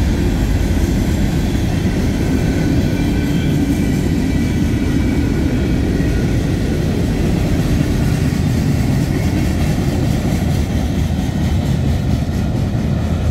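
Freight cars rolling past on the rails: a steady rumble of steel wheels on track, with a faint high wheel squeal in the first half.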